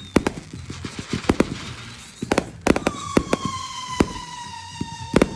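Fireworks going off: a string of irregular sharp pops and bangs, and about halfway through a whistling firework sounds, its whistle sliding slowly down in pitch for about two seconds before a cluster of loud bangs near the end.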